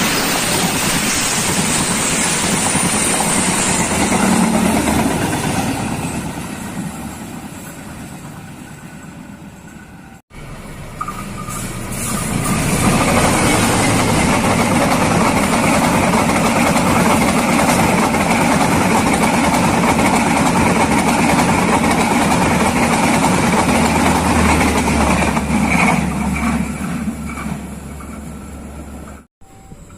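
Train passing close by, its wheels on the rails loud at first and dying away over several seconds. After an abrupt break, another pass builds up, stays loud for a long stretch and fades away near the end.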